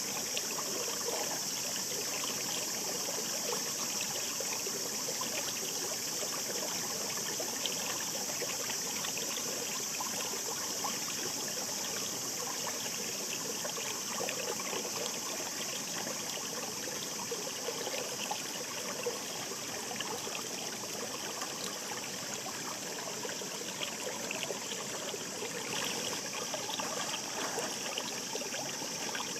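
Shallow mountain stream babbling over stones: a steady, even rush of running water with fine trickles and splashes throughout.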